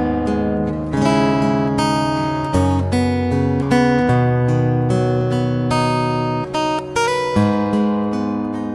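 Background music: strummed acoustic guitar chords, changing about once a second.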